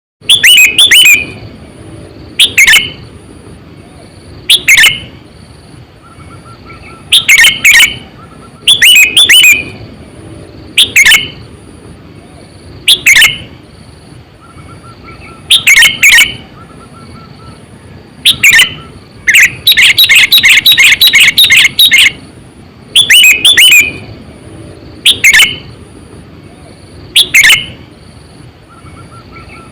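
Sooty-headed bulbul (kutilang) calling close up: short loud chirping phrases about every two seconds, with a longer run of rapid chirps about twenty seconds in.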